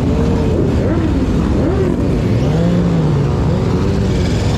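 Motorcycle engines running in a group, with a loud low rumble and engine notes that rise and fall as they are revved, one swelling and dropping back about halfway through.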